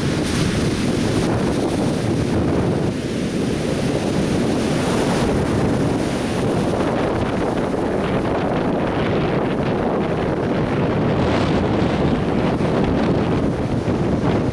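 Atlantic Ocean surf breaking and washing on a beach, a continuous rumbling roar of waves, with wind buffeting the microphone.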